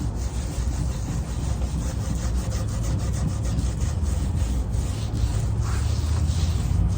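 Oil-based stain being scrubbed into the grooves of a wooden bench: steady rubbing of an applicator on wood in quick, repeated strokes, over a low steady hum.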